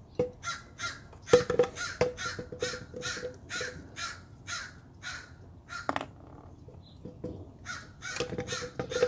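A bird calling in a quick series of short harsh notes, about three a second. The calls stop after about five seconds and start again near the end. Light clicks from wires and wire nuts being handled sound underneath.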